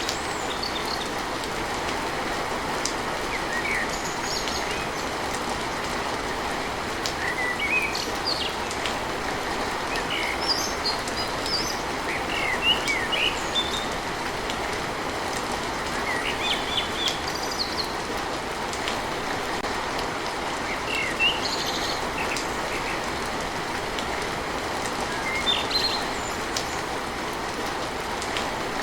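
Steady rain falling on a tin roof, with a bird chirping in short bursts of calls every few seconds.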